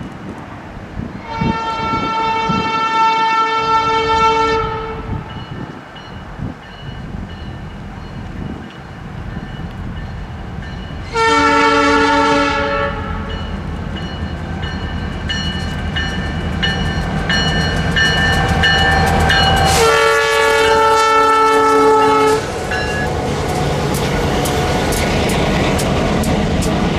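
Union Pacific diesel locomotive air horn sounding for a grade crossing in three blasts: long, short, then long. Between and after the blasts the light engine move's locomotives rumble past, with wheels clicking over the rail.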